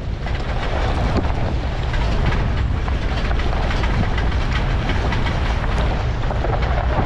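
Vehicle driving over a rough unpaved mountain track: a steady low rumble with a constant rattle of small knocks and clatters.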